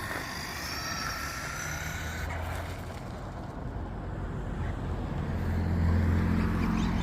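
A road car's engine hum grows louder as it approaches over the last few seconds. Early on, a faint high whine from the racing RC car fades away.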